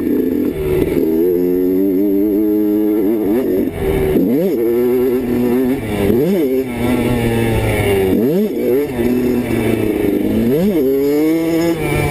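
Dirt bike engine running hard, its pitch revving up and dropping back sharply about four times, roughly every two seconds, as the throttle is worked around the track.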